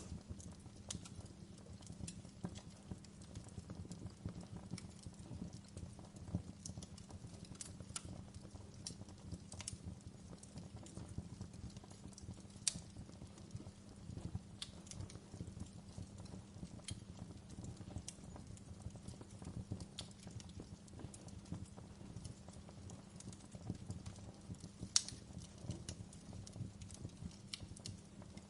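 Log fire crackling: a steady low rumble of flames with irregular sharp snaps and pops, two louder pops about halfway through and near the end.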